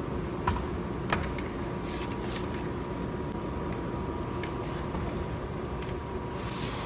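Steady mechanical hum with a faint steady tone. Over it come two sharp knocks, about half a second and a second in, then a few lighter clicks and a short hiss near the end, as a wheel and tire are worked into the rear wheel well.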